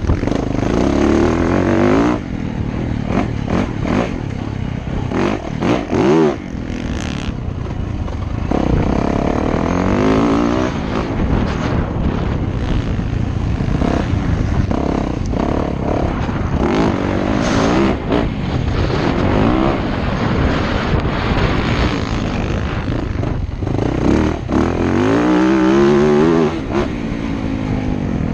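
Motocross dirt bike engine revving hard and easing off over and over, its pitch climbing and dropping several times.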